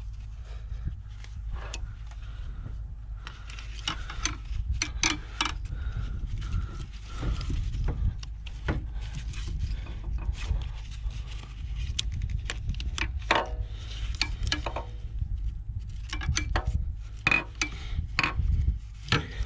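Irregular metal clicks, taps and scrapes of a hand tool prying at a stuck high-pressure fuel line connector on a diesel engine, over a low steady hum.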